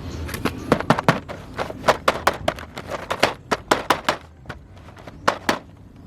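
Hard plastic toy pieces clicking and clacking as they are handled: a quick, irregular run of sharp clicks for about four seconds, then a few single clicks further apart.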